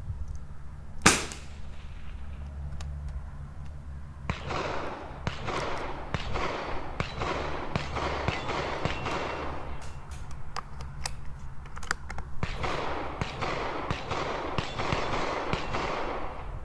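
A single .22 LR shot from a Tikka T1x rimfire rifle about a second in, a short sharp crack. Later come two long stretches of rushing noise.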